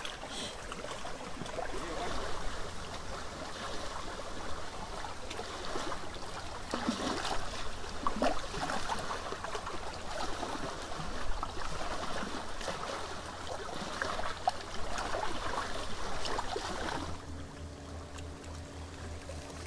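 Lake water lapping and gurgling unevenly at the shore. Near the end it gives way to a steady low hum with a few faint steady tones.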